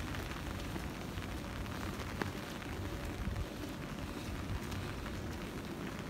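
Steady rain falling on pavement and wet surfaces, with scattered drop ticks and one sharper tap about two seconds in.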